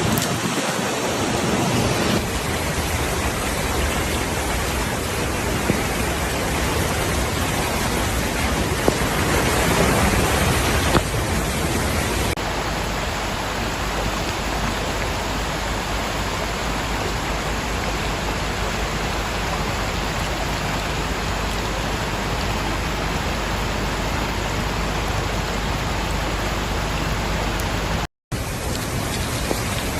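Steady rushing noise of heavy storm rain. It changes character abruptly about 2 and 12 seconds in and cuts out for a moment near the end.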